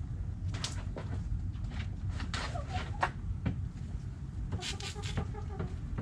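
Backyard hens clucking in two short bursts of calls, one about two seconds in and one near the end, with a few sharp clicks, over a steady low rumble.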